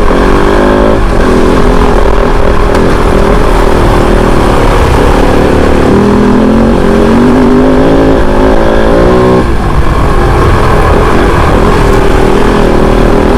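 Kove 450 Rally motorcycle's single-cylinder engine being ridden hard. It revs up with rising pitch near the start and again midway, then drops back about nine seconds in.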